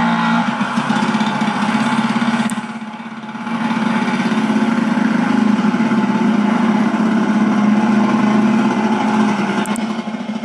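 1972 Ski-Doo Olympique 335 snowmobile's two-stroke engine running steadily, briefly dropping in loudness about two and a half seconds in before coming back up.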